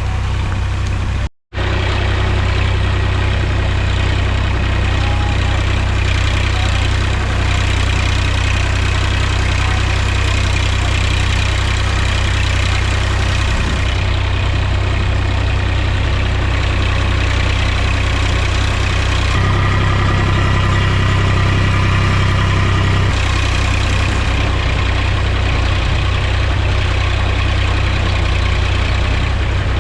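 Mahindra tractor's diesel engine running steadily, with a brief dropout to silence about a second and a half in. Its note turns heavier and louder for a few seconds about two-thirds of the way through, then settles back.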